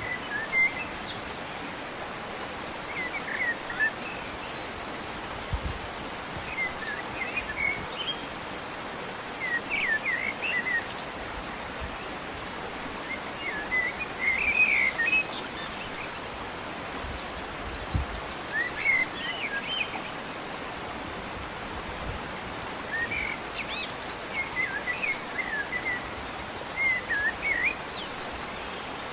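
A forest stream running with a steady rush of water, while a small songbird gives short, quick chirping phrases every couple of seconds.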